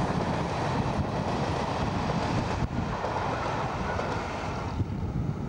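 Passenger train running away along the line with a steady rumble and rush, mixed with wind on the microphone. The sound thins out near the end as the train goes.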